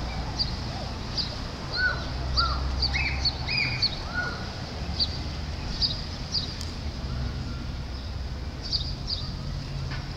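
Birds chirping and calling: quick high chirps repeated throughout, with a few lower arching calls about two to four seconds in, over a low steady rumble.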